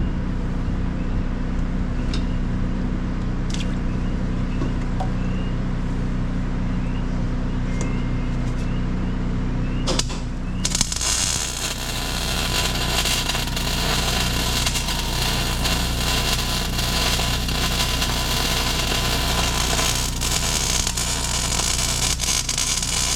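A steady engine hum with a few faint clicks, then about ten seconds in an electric welding arc strikes and keeps up a dense crackling hiss as a weld bead is laid, the engine hum continuing underneath.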